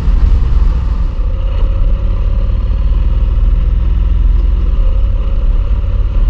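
Motorcycle cruising at road speed: steady engine drone under loud, even wind and road rumble.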